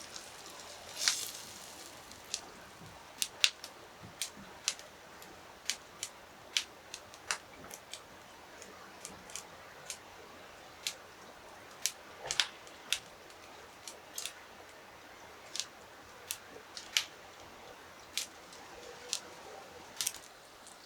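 A run of irregular sharp clicks and snips, roughly one a second, over a faint steady hiss.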